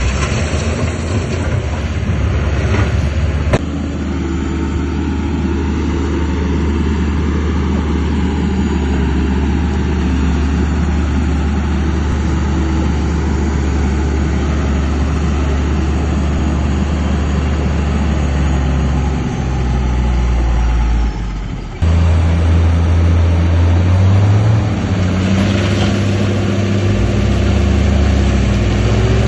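Heavy diesel engine of earthmoving machinery running steadily. About two-thirds of the way through the sound changes abruptly, and a few seconds later the engine speeds up a little.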